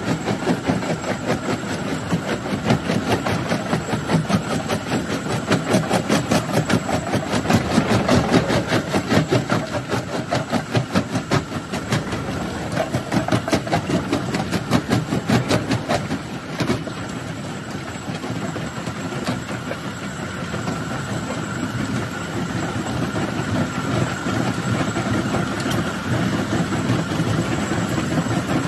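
Jaw crusher running and crushing rock: a continuous dense clatter of knocks over a steady mechanical drone, with a faint steady whine. The clatter eases a little about halfway through.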